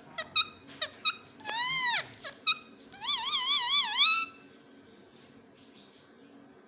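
Ringneck parrot calling: a few short clicks and chirps, then a long call that rises and falls in pitch, then a wavering, warbling call, falling quiet about four seconds in.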